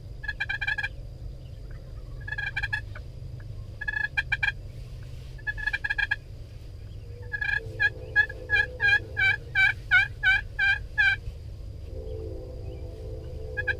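Wild turkeys gobbling: several short gobbles spaced a second or two apart, then a longer run of about a dozen evenly spaced call notes from about eight to eleven seconds in.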